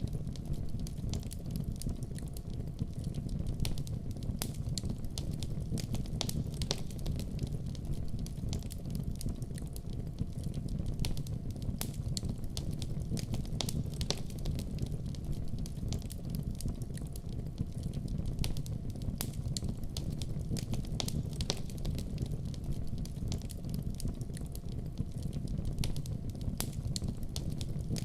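Fireplace fire crackling: many irregular sharp pops and snaps over a steady low rumble of burning.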